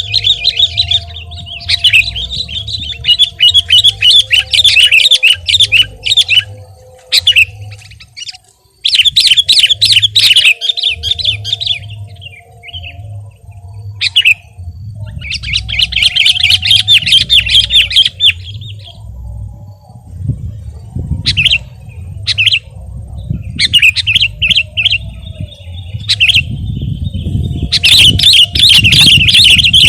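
Sooty-headed bulbul (kutilang) singing loudly and energetically, the lively 'gacor' song used as a training and lure call for other bulbuls: repeated bursts of rapid chirping phrases, some several seconds long, with short pauses between. A low rumble runs underneath.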